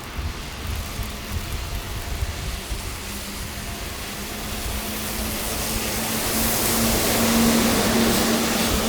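A car passing on a snowy street: its tyre hiss swells to its loudest about seven seconds in, with a steady engine hum underneath.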